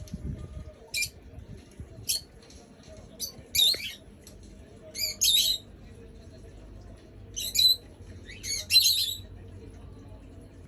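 Rosy-faced lovebird giving short, sharp, high-pitched chirps and squawks, about six calls spaced a second or two apart, some of them quick doubles.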